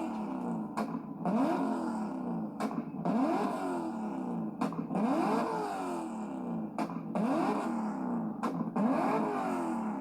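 A Corvette's engine revved hard over and over, about every two seconds, each rev a rising sweep in pitch, with a sharp crack just before each rev.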